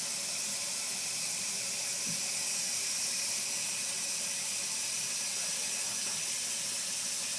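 Kitchen sink tap running steadily, the stream of cold water hissing into the sink and a container.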